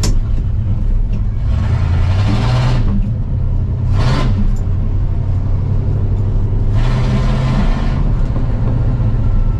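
A 1985 Ford F250's engine running steadily while the truck is driven, revving up twice for about a second each and blipping briefly once in between. It is running well, the stalling apparently cured by putting gas in it.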